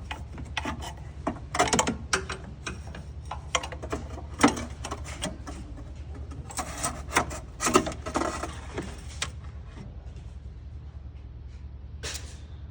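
Metal clinks, knocks and scraping from hands and tools working parts loose in an engine bay, as the oil dipstick tube is worked up out of the engine, over a steady low hum. The handling noises are busiest in the first nine seconds and thin out after that.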